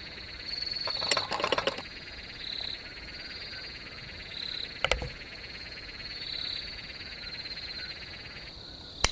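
A continuous high-pitched chorus of calling frogs, with short repeating notes over a steady trill. A brief rustle about a second in and a single sharp click near the middle.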